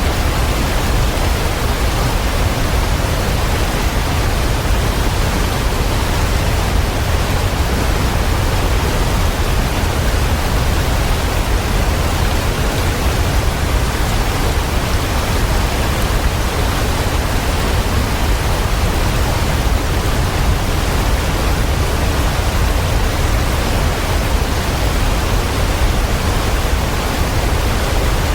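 Waterfall: a loud, steady rush of falling water with a deep low rumble, unchanging throughout.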